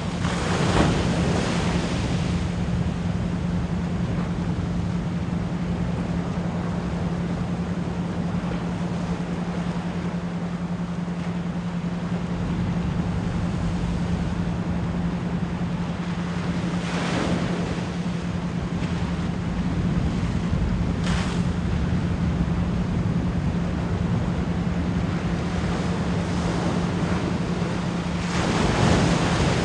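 Ocean waves washing in, swelling about a second in, again around seventeen seconds and near the end, under a steady low 174 Hz pure tone used as an isochronic brainwave-entrainment tone.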